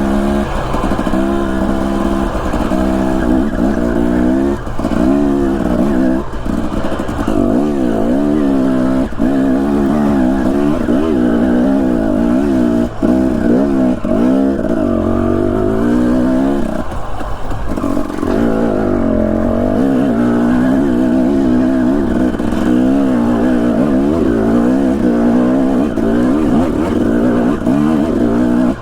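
Husqvarna TE250 enduro dirt bike engine running under riding load, its pitch rising and falling constantly with throttle and gear changes, with a brief drop about 17 seconds in.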